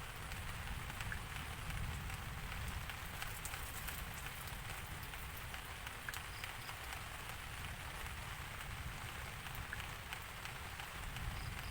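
Steady rain falling: a continuous hiss dotted with the sharp ticks of individual drops. No thunder is heard.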